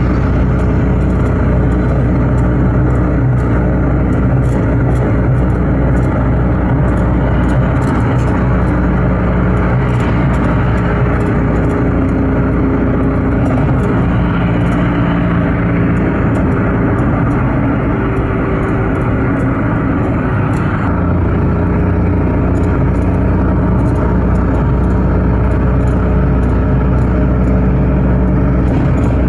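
A car on the move: steady engine and road noise, with the engine note drifting up and down as the speed changes.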